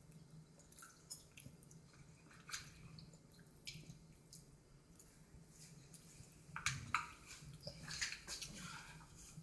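Faint wet smacking and clicking of someone eating, sparse at first and busier about two-thirds of the way in.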